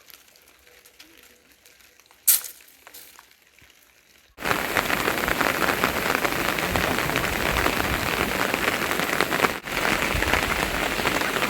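A quiet stretch with one sharp knock about two seconds in; then, a little past four seconds, heavy rain sets in abruptly as a dense, steady patter, briefly dipping once near the end.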